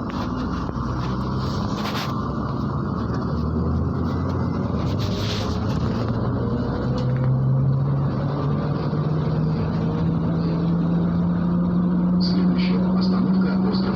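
MAZ-103 city bus's diesel engine pulling under way, its drone rising slowly and steadily in pitch as the bus gathers speed. A few short rattles sound now and then over it.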